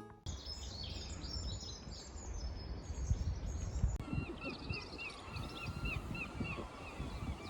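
Small songbirds chirping outdoors, with wind gusting on the microphone. About four seconds in the sound changes to one bird repeating a short chirp three or four times a second.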